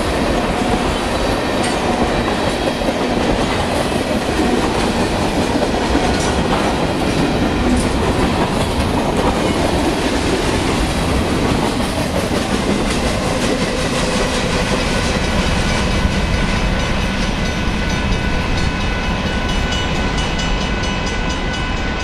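Cars of a Union Pacific manifest freight train rolling past at close range, a steady rumble with wheel clatter over the rail joints. The last cars go by near the end and the sound begins to ease.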